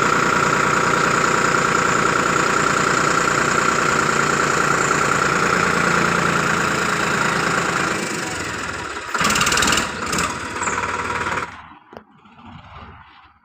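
Sonalika tractor's diesel engine running steadily with a strong whine over it. About eight seconds in the sound changes, with a louder noisy stretch around nine seconds, and it drops off sharply near the end.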